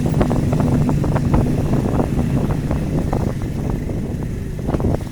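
Vehicle engine running while travelling along a city street, with road and tyre noise, frequent small rattles and knocks, and some wind on the microphone.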